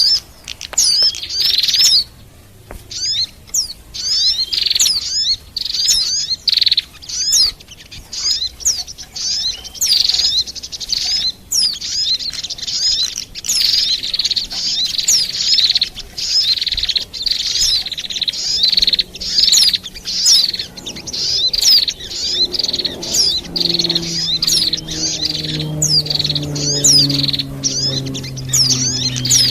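Bird-lure recording of fast, overlapping high chirps and twittering song, a mix of white-eye (pleci), sunbird (kolibri) and prinia (prenjak) calls used to attract these birds. In the last several seconds a fainter low hum slowly slides down in pitch beneath the birdsong.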